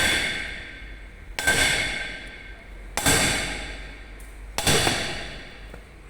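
Four evenly spaced hammer blows on steel, each ringing out and fading over about a second, as parts of an excavator arm cylinder are knocked loose.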